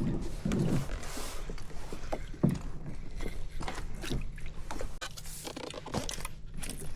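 Scattered knocks and clicks of gear being handled on a fishing kayak while a fish is brought in, over a low rumble of wind and water.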